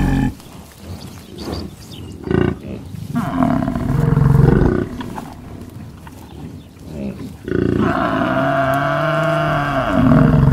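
Water buffalo lowing: a deep call a few seconds in, then a long drawn-out call from about eight seconds in. There is a brief knock in between.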